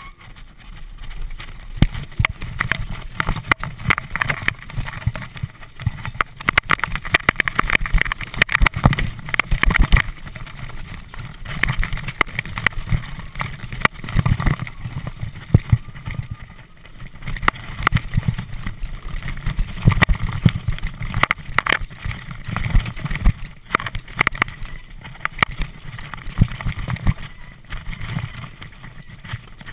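Bicycle in motion, rattling and knocking continuously over uneven ground, with a low rumble from the tyres and frame; the clatter comes and goes in uneven surges.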